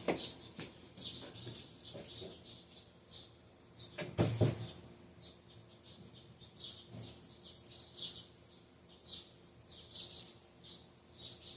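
Birds chirping repeatedly in short, high calls, with a single thump about four seconds in.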